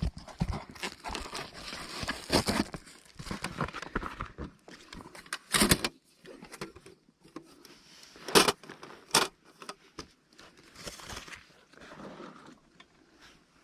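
Irregular rustling and crinkling with scattered clicks and knocks, and a few sharper, louder strokes around the middle.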